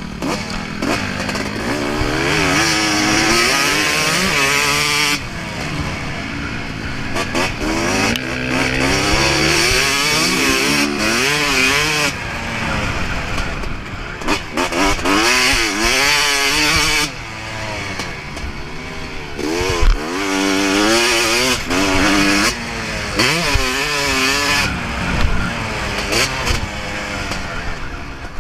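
Motocross bike engine being ridden hard: it revs up and falls back again and again, with sudden drops where the throttle is closed.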